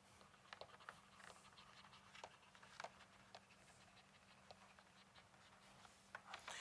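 Near silence: room tone with a faint steady hum and scattered faint clicks.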